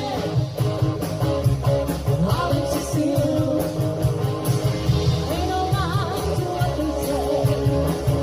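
Live rock band playing an 80s cover: a woman singing over electric guitar, bass and a steady drum beat.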